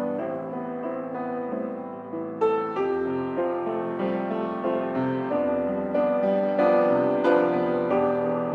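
Piano music: notes and chords struck one after another and left to ring.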